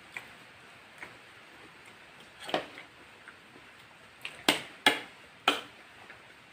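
Close-miked eating sounds: a couple of faint clicks, then four louder sharp crunches and clicks from the second half on, with short quiet gaps between them.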